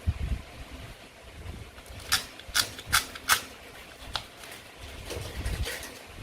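Toy play food being handled and cut on a table: a low thump at the start, then about five sharp clicks between two and four seconds in, and some low knocking near the end.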